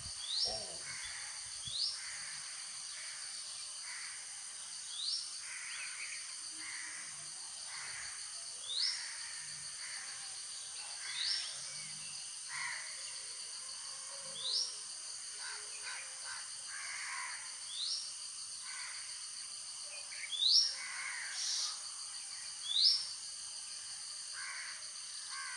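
Birds calling outdoors: a short, sharply rising high note repeats every two to three seconds, with the loudest calls near the end, among some rougher, crow-like calls. A steady high-pitched drone runs underneath.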